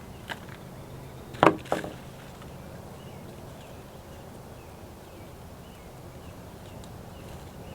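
A few sharp knocks of hard objects handled during repotting: a light one at the start, then two louder ones close together about a second and a half in. After that comes a steady outdoor background with faint, short bird chirps.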